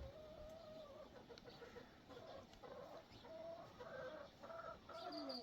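Chickens clucking faintly in short, repeated calls. Near the end a cricket starts chirping in a high, pulsing trill.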